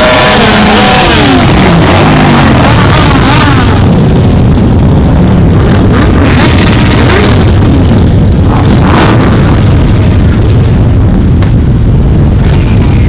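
Loud motorcycle engines as a stream of bikes rides past, with revving that rises and falls in pitch over the first few seconds, then a dense, steady rumble of many engines together.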